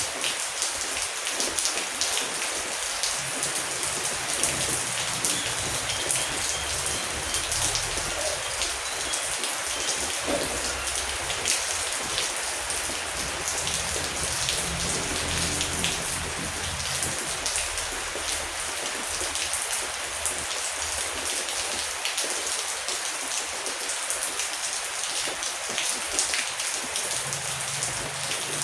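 Steady heavy rain falling, a dense hiss flecked with many sharp drop hits. A faint low rumble comes and goes underneath.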